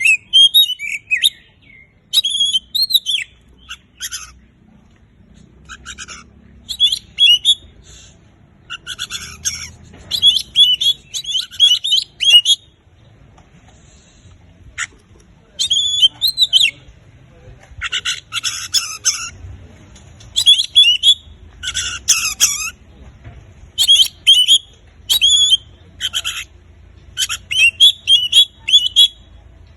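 Oriental magpie-robin in full song: short, loud bursts of varied whistles and chattering notes come one after another, with brief pauses between the phrases.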